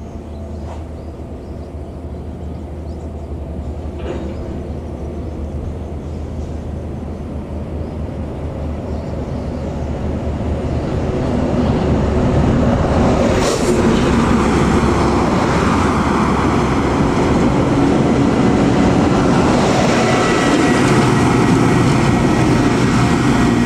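Large diesel intercity bus approaching along the road. Its engine and tyre noise grow steadily louder over about ten seconds, then hold close and loud.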